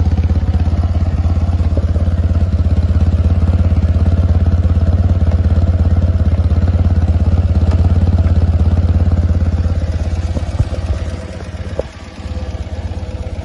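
BMW R80 G/S air-cooled flat-twin boxer engine idling steadily after a cold start. About eleven seconds in, its sound drops away and becomes quieter.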